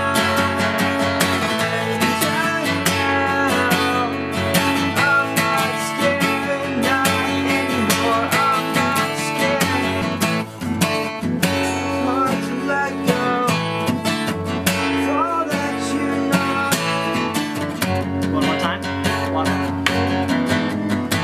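Acoustic guitar strummed steadily while a voice sings a melody over it, a rehearsal run-through of a song.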